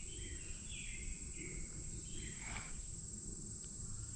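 Outdoor creekside ambience: a steady, high-pitched insect drone runs throughout, with scattered short bird chirps and a low background rumble.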